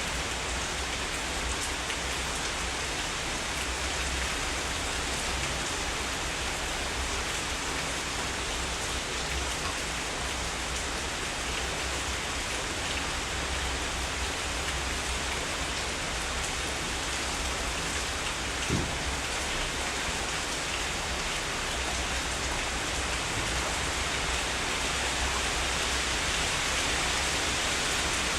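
Heavy rain falling steadily, an even hiss with a low rumble beneath it, and a single sharper drop or tap about two-thirds of the way through.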